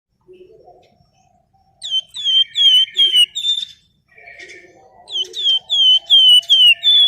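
Flamboyan songbird calling in two loud runs of sharp, downward-slurred whistled notes, five in the first run and six in the second. A fainter low chatter sits beneath the calls.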